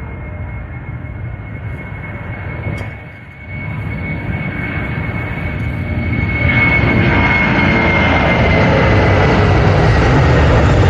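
Airliner taking off at full power: a deep engine rumble with a steady high whine over it, growing louder about halfway through as the plane comes closer.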